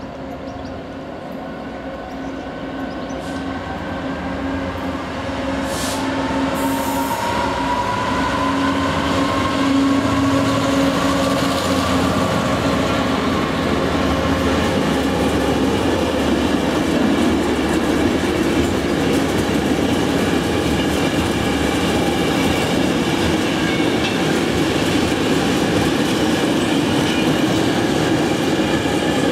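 Class 66 diesel-electric freight locomotive approaching and passing with its EMD two-stroke diesel engine running, growing louder over the first ten seconds or so. A long rake of intermodal container wagons then rolls past with a steady rumble, rail clatter and some wheel squeal.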